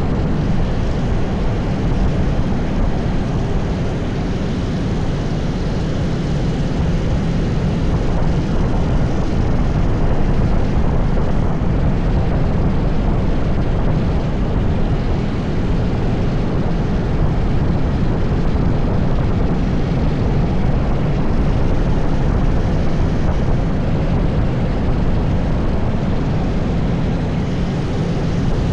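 80cc go-kart engine running at racing pace on track, a steady loud engine drone with wind noise over it and only small dips in level.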